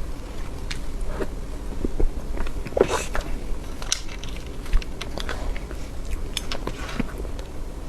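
Close-miked eating sounds of someone chewing soft cream cake: scattered wet mouth clicks and smacks, with a louder one about three seconds in.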